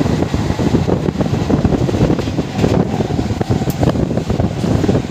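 Indian Railways train running: a steady, loud, low rumble with gusty wind noise.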